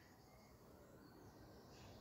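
Near silence: quiet garden ambience with a few faint, high, brief bird chirps.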